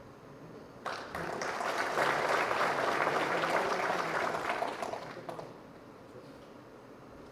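Audience clapping: a round of applause that starts suddenly about a second in, holds for a few seconds and fades out before the end.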